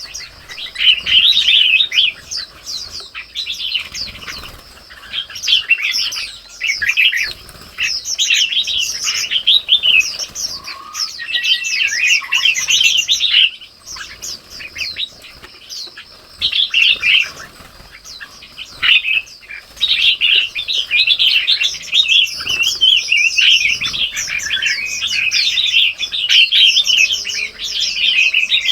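Dense, continuous chirping and twittering of several small birds calling over one another in quick, overlapping notes.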